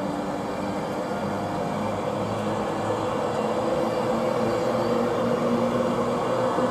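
East Coast express passenger train rolling slowly through the station: a steady rumble with a low hum, growing a little louder.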